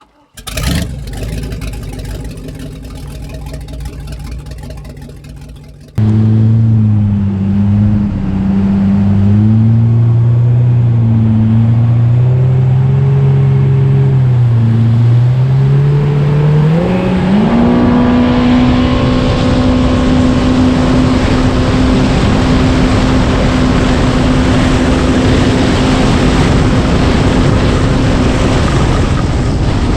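Supercharged engine of a 2019 Yamaha FX SVHO jet ski, fitted with an aftermarket air intake and blow-off valve, running with revs rising and falling. About seventeen seconds in it climbs to a steady high pitch held at wide-open throttle, then drops off just before the end. A different, fading sound fills the first few seconds before the engine comes in.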